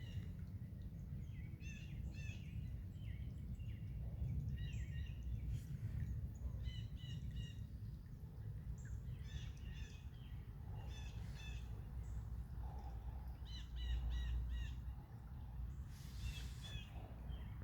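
Birds calling in short phrases of three or four quick, high notes, repeated every second or two, over a steady low rumble.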